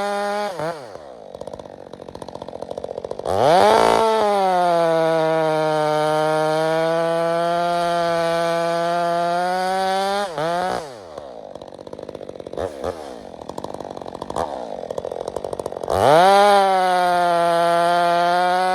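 Stihl 462 C-M two-stroke chainsaw with an Egan Straight Shot exhaust, run at full throttle and let back to idle three times. During the long full-throttle stretch the engine's pitch sags and then climbs again, as it does when a saw pulls through a cut.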